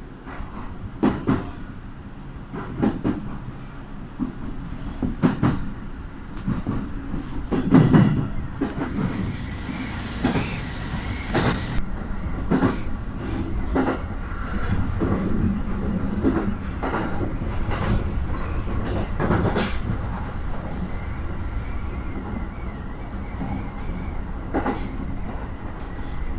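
Train running on rails: a steady low rumble with wheels clacking over rail joints, often in pairs. A brief hiss comes about nine seconds in and cuts off suddenly about three seconds later.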